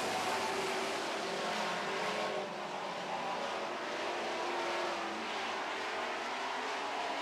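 A pack of dirt-track Super Trucks racing around the oval, their engines at speed blending into a steady drone whose pitch rises and falls slightly as they circulate.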